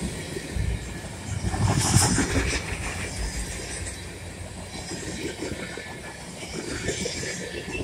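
Loaded flatcars of a freight train rolling past, a steady rumble and clatter of steel wheels on the rails, louder for a moment about two seconds in.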